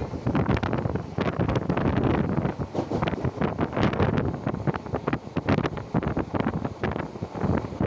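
Wind buffeting the phone's microphone from a moving passenger train, with the train's running noise beneath; the gusts come and go irregularly.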